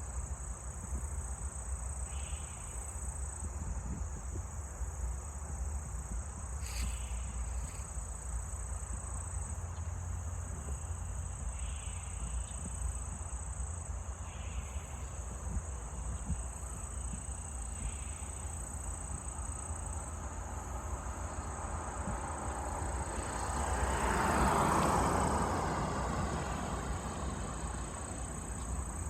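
Insects trilling in a steady, continuous high-pitched tone over a low outdoor rumble. About three-quarters of the way through, a broad swell of noise rises and fades away over a few seconds.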